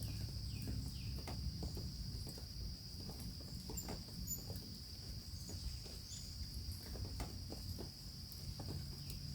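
Crickets chirping in a steady high-pitched chorus, with scattered light ticks.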